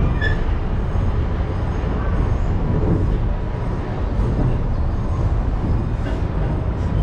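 Steady low rumble of a slow-moving passenger train, heard from inside an open-sided coach.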